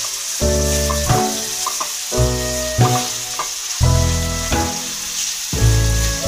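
Pork pieces sizzling as they fry in a metal pan, stirred with a wooden spatula. Background music with a heavy bass line plays over the sizzle, its notes changing about every second and louder than the frying.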